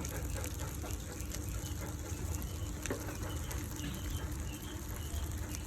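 Faint, short bird chirps repeating over a steady low rumble, with a few soft clicks.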